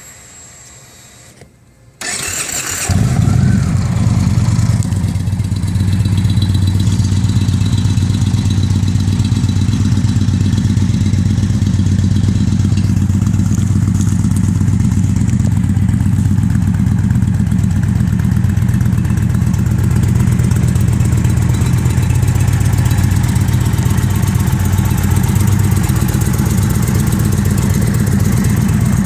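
2015 Indian Chief Classic's Thunder Stroke 111 V-twin, breathing through a split dual CFR exhaust, is started about two seconds in: a brief crank, then it catches and idles steadily and loudly.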